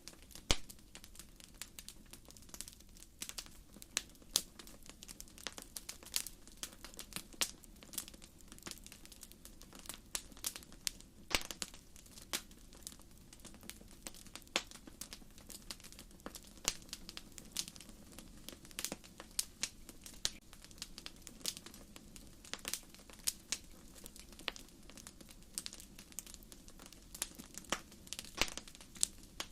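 Wood campfire crackling: burning firewood gives off irregular sharp pops and snaps, several a second, over a soft, steady low rumble of the flames.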